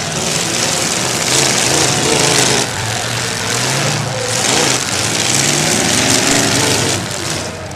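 Demolition derby car engines revving hard, the pitch rising and falling. There are two louder surges, one about a second in and a longer one from about three and a half seconds in.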